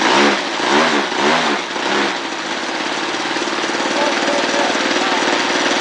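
Quadra Q65 two-stroke gas engine on a model biplane running, its pitch swinging up and down in quick surges for the first two seconds, then settling into a steady run.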